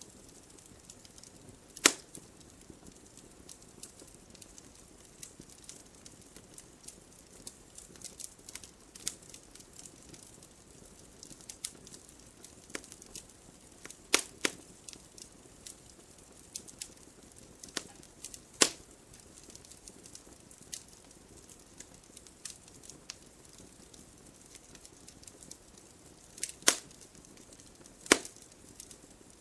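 Wood fire in a fireplace crackling: a low steady hiss with frequent small snaps and a handful of loud sharp pops from the burning logs.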